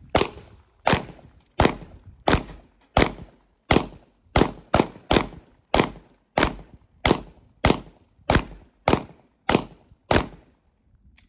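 Rapid gunfire: about seventeen sharp, loud shots at an even pace of roughly one and a half a second, each with a short echoing tail.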